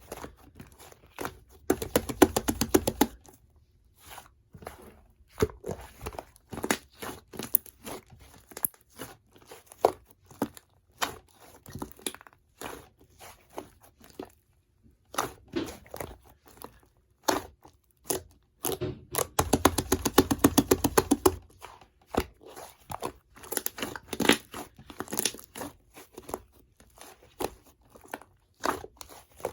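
Fluffy slime being squeezed, stretched and pressed by hand, giving irregular sticky clicks and crackles of popping air pockets, with two dense flurries of rapid popping, one about two seconds in and one about two-thirds of the way through.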